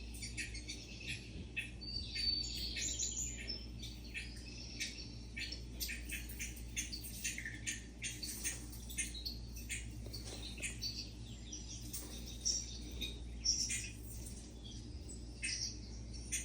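Small birds chirping, many short chirps overlapping throughout, over a steady low hum.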